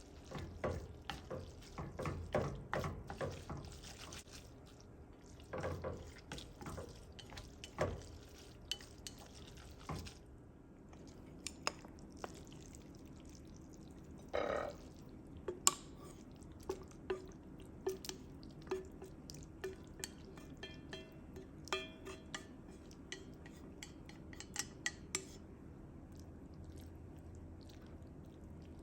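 A utensil clinking and scraping in a pot as instant noodles and rice cakes are stirred into black bean sauce. The sound is busy for about the first ten seconds, then thins to scattered clicks and taps.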